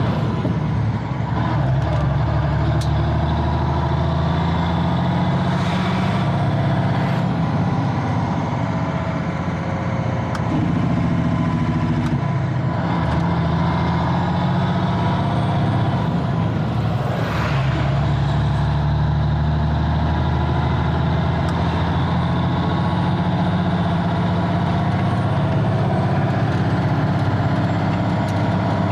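A 1985 Freightliner cabover semi truck's diesel engine running steadily, with a faint high whine rising and falling above it. Two short hissing bursts come about six and seventeen seconds in.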